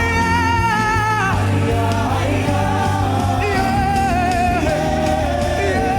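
Gospel worship music: long held, slightly wavering sung notes over a steady band accompaniment, a new note starting about three and a half seconds in.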